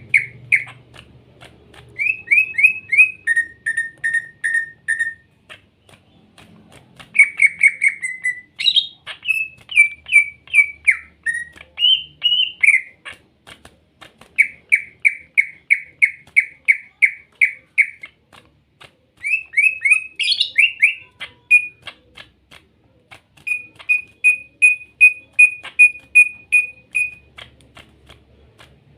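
Cucak ijo (green leafbird) singing: runs of quick, repeated chirping notes, several a second, broken by short pauses and twice by a sharp upward-sweeping whistle.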